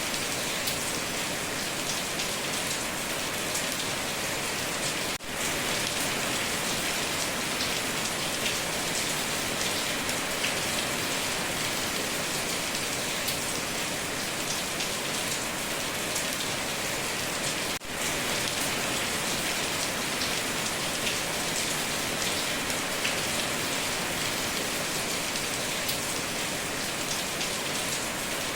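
Heavy rain drumming steadily on a tin roof, a dense hiss full of small drop ticks, briefly dipping twice.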